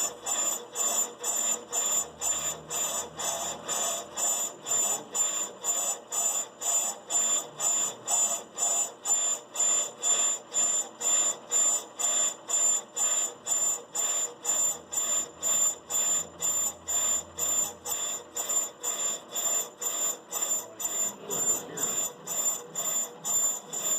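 Brake lathe cutting bit squealing against a spinning brake part, a high-pitched screech that pulses evenly about two and a half times a second.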